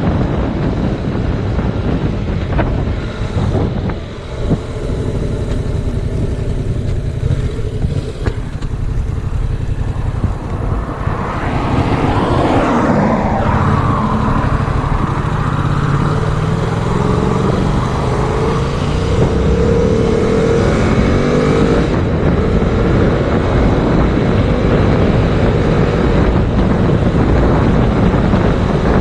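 Heavy wind rumble on the camera microphone from riding a 2019 Yamaha MT-07, with the bike's 689 cc parallel-twin engine underneath. From about halfway through, the engine note rises in several steps as the bike accelerates through the gears.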